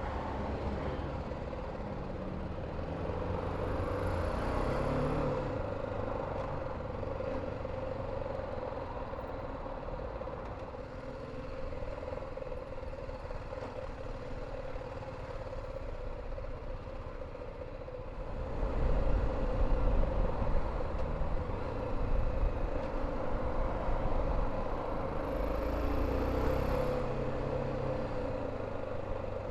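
BMW G310 GS single-cylinder motorcycle riding through city traffic, its engine and road noise running steadily. The engine gets louder about two-thirds in.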